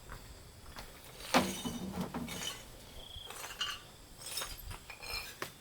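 Scattered light clinks and knocks of hard objects against each other, the loudest about a second and a half in.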